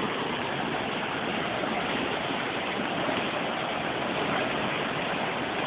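Steady, even rush of water, like a torrent or a heavily flowing channel in typhoon conditions, continuing without a break.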